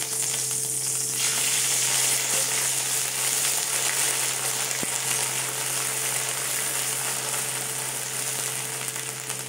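Grated ginger frying in hot mustard oil and ghee in an aluminium kadai: a steady, dense sizzle, stirred with a spatula. A faint steady low hum runs underneath.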